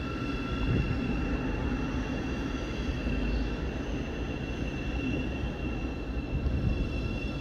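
Electric multiple-unit passenger train running past along the far platform: a steady low rumble with a steady high whine held over it.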